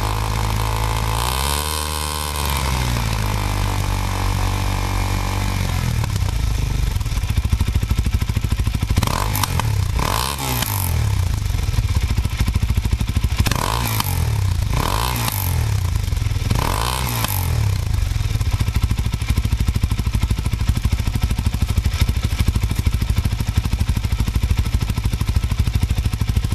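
Suzuki DR-Z400SM single-cylinder four-stroke running through a Yoshimura full titanium exhaust: the revs swell and then fall back to idle over the first few seconds, it idles, and about five quick throttle blips come between about nine and eighteen seconds in before it settles back to a steady idle.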